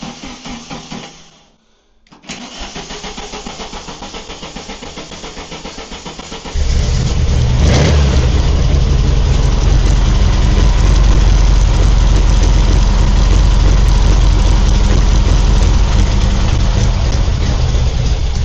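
Volkswagen engine being cranked on the starter, the starter stopping briefly and cranking again, then catching about six and a half seconds in and running steadily until it is switched off near the end. It fires on new green HT leads that showed no continuity on a meter.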